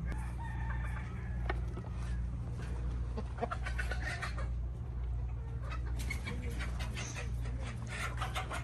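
Chickens clucking in short bursts of calls, over a steady low hum.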